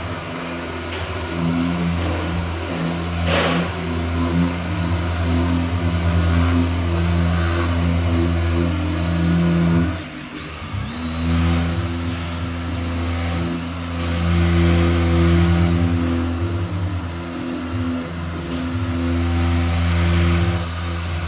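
A power sander running steadily on body filler. Its motor cuts out briefly about halfway through, then spins back up and keeps running.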